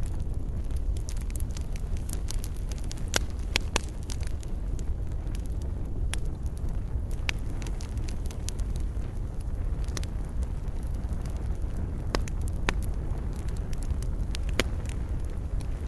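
Campfire of burning wood crackling, with irregular sharp pops and snaps over a steady low rumble.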